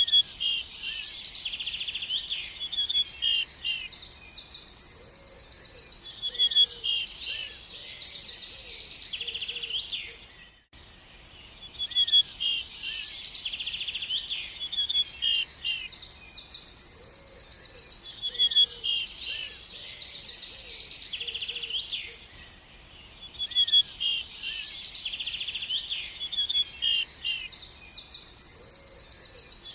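Birds singing: a dense run of high chirps and fast trills, with faint lower calls beneath. The singing breaks off briefly about a third of the way in and again about three quarters of the way through, then carries on.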